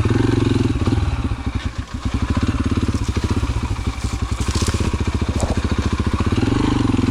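Yamaha TT-R125's single-cylinder four-stroke engine running at low speed under way. It eases off briefly about two seconds in, then pulls steadily again.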